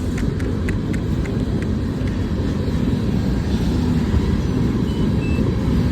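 Steady low rumble of a moving vehicle, with a few light clicks in the first second.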